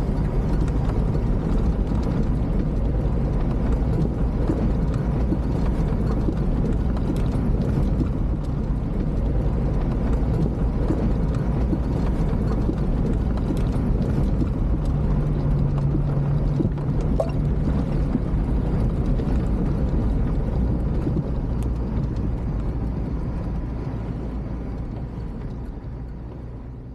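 Off-road 4x4 driving on a rough dirt track: the engine runs steadily under a constant clatter of the body and suspension. The engine note swells briefly a little past the middle, and the whole sound fades out near the end.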